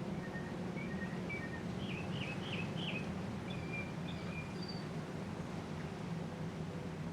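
1983 Casablanca Panama ceiling fan running with a steady low hum and air noise. A bird chirps faintly, a quick series of short high notes from shortly after the start to about halfway through.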